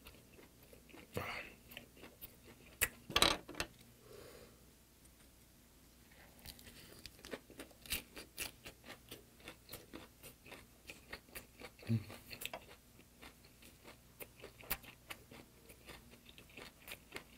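Close-miked chewing of a large mouthful of lettuce wrap with rice and braised sardine: two louder crunching bites about one and three seconds in, then steady wet mouth clicks at roughly three a second.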